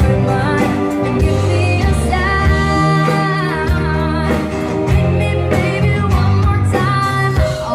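Live band music with a singer holding long notes over bass and regular drum beats.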